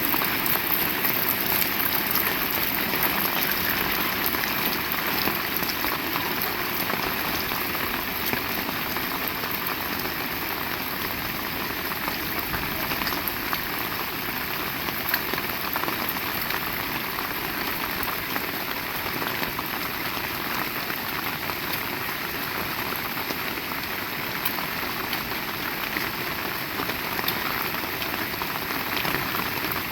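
Heavy rain falling steadily, a dense patter of drops with a high hiss.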